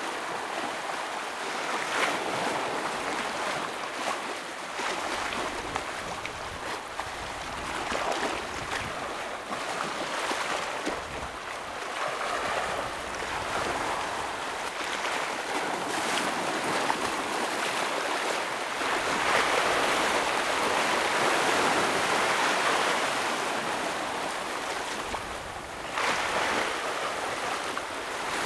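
Ocean waves breaking and washing against rocks on a shore, a continuous rush that swells and eases every few seconds, building to its loudest stretch a little past the middle.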